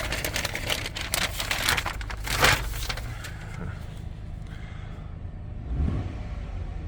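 Toyota Tundra's 3.5-litre twin-turbo V6 idling, heard from inside the cabin, under about three seconds of rustling and handling noises as paper is moved. The idle swells briefly near the end.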